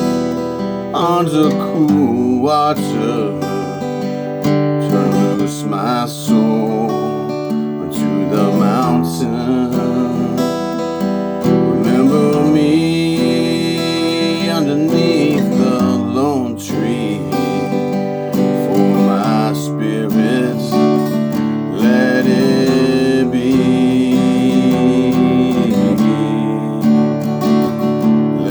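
Acoustic guitar strummed steadily, with a voice singing long wavering notes over it at times.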